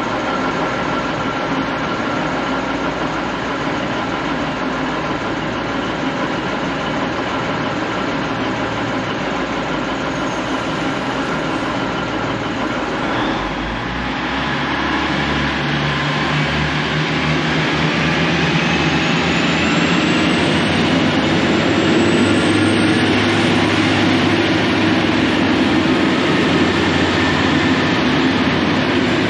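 V/Line diesel train's engines running at the platform. About halfway through, a deeper engine note comes in and the sound grows louder, with a faint rising whine, as the train powers up.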